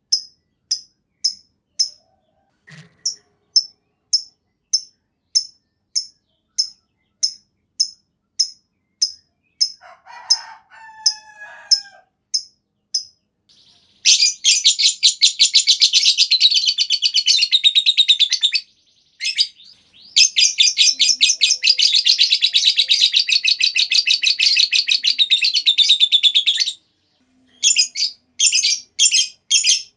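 Lovebird calling: sharp high chirps at about one and a half a second, then two long rapid chattering trills (the 'ngekek panjang'), then single chirps again near the end.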